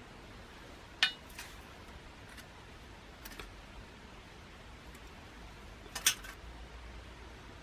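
Two sharp clicks, one about a second in and a louder one about six seconds in, with a few fainter ticks between them over a low steady background.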